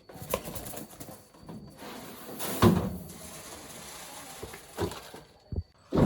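Scattered knocks and clatter of things being handled, the loudest about two and a half seconds in.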